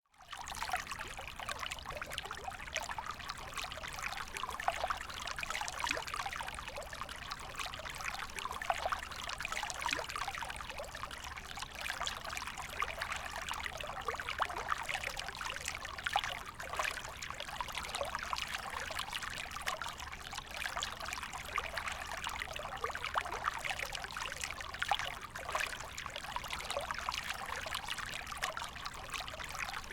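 Creek water running and trickling steadily, with constant small splashes and burbles, fading in at the very start.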